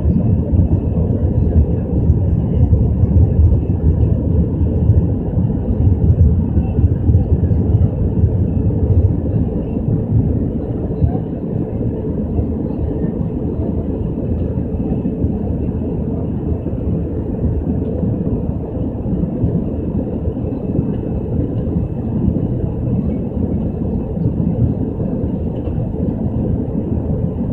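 Steady low roar inside an Airbus A320 cabin in flight, engine and airflow noise, a little louder for the first ten seconds or so and then easing slightly.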